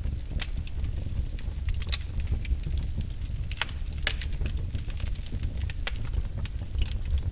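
Logs burning in a fireplace, crackling with irregular sharp pops and snaps over a steady low rumble of the flames.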